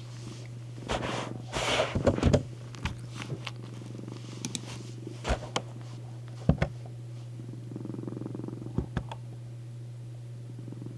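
Domestic cat purring steadily, a continuous low hum. Scattered rustles and sharp clicks break in, the loudest cluster about one to two and a half seconds in and a few more later.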